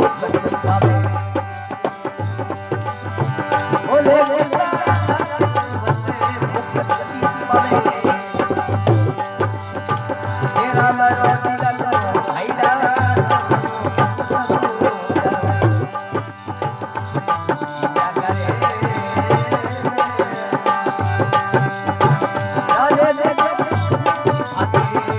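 Rajasthani folk devotional bhajan music: a steady hand-drum rhythm under a winding melody line.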